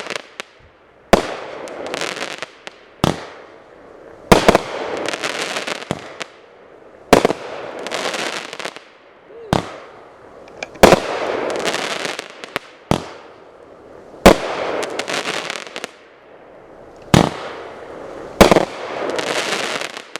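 Rain of Fire Premier 500-gram repeater cake firing. Each shot is a sharp report, several followed by a second or two of crackling, about a dozen shots in all.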